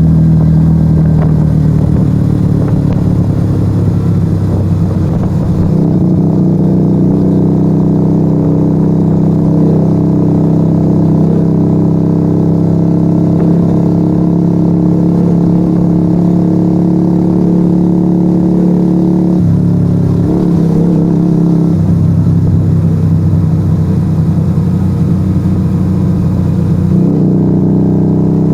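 Yamaha XV125 Virago's small V-twin engine running loud through a straight-pipe Turbo Kit exhaust with its dB killers removed, held at steady revs while riding. The note changes briefly about two-thirds of the way through and again near the end.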